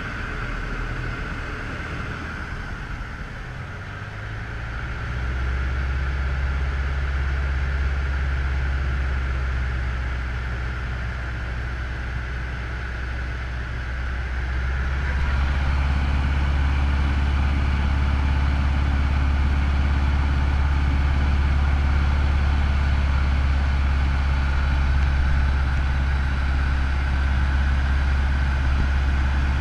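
Cessna 150L's four-cylinder Continental O-200 engine and propeller running with a steady low drone. The drone steps up in power twice, about five and about fifteen seconds in.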